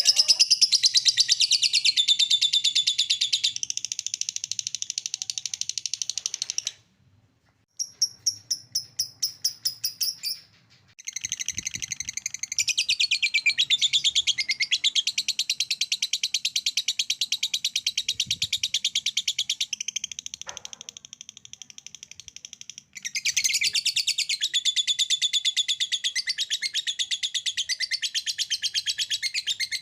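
Lovebird 'ngekek' song: long unbroken runs of rapid high-pitched chattering trills. The song stops twice, about seven seconds in and again around eleven seconds, with a string of separate chirps between the two stops.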